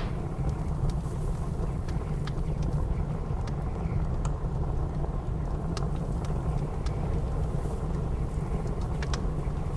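Wood fire in a fireplace crackling, with scattered sharp pops at irregular intervals, over a steady low rumble of blizzard wind.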